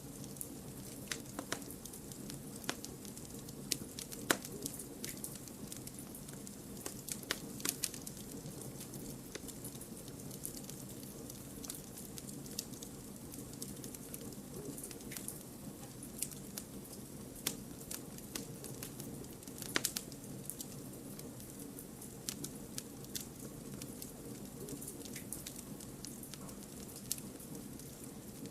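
Campfire of firewood burning, a steady low rumble under irregular crackles and sharp pops from the burning wood.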